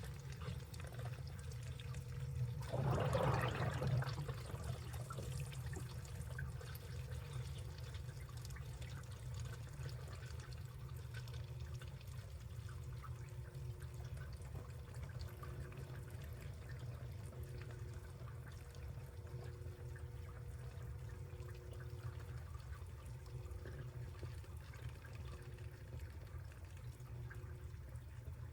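Washing machine running a wash cycle: water sloshing and trickling in the drum over a steady low hum, with a louder rush of water about three seconds in.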